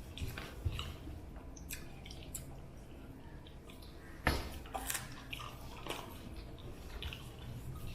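Close-up eating sounds of a rice and fish curry meal: chewing with wet squishing and small clicks, and one sharper knock about four seconds in.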